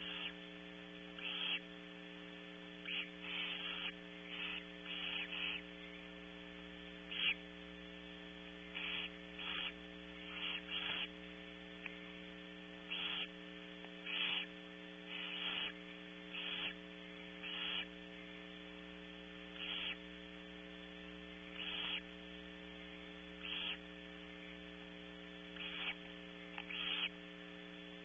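Barn owl chicks giving short, hissing begging calls over and over, one every second or two at an uneven pace, over a steady electrical hum.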